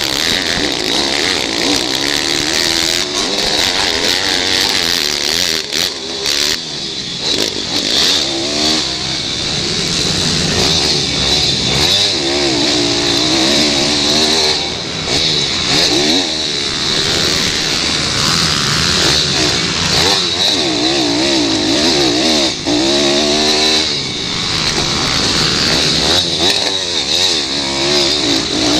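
Several pit bike engines racing, revving up and down over and over as the bikes accelerate and back off.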